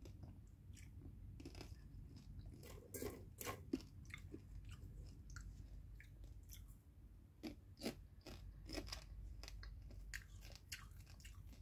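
A person biting and chewing popcorn: faint, irregular crunches.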